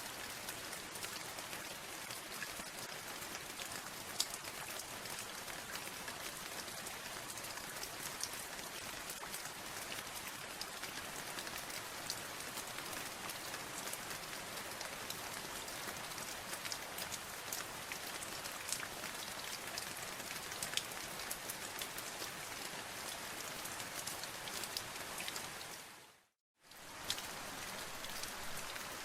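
Steady rain falling, an even hiss with many sharp ticks of individual drops striking a surface. Near the end it fades out to silence for under a second and comes straight back.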